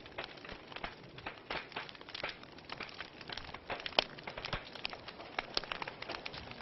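Wood fire burning in a fireplace, crackling with irregular snaps and pops over a soft hiss, one louder pop about four seconds in.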